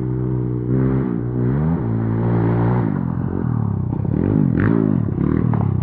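Dirt bike engine running under way, its revs climbing and dropping several times as the throttle is worked, with a quick dip-and-rise near the end.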